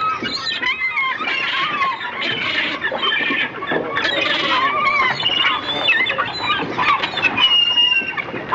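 A crowd of birds calling: many overlapping high calls that rise and fall in pitch.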